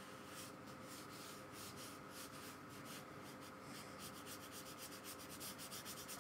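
A paintbrush loaded with watery gouache brushed quietly over sketchbook paper in quick repeated strokes, several a second.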